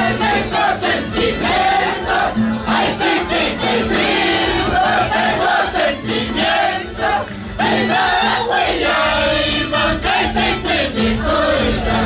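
A crowd of voices singing and calling out together, with high wavering voices and a steady held tone underneath that comes and goes.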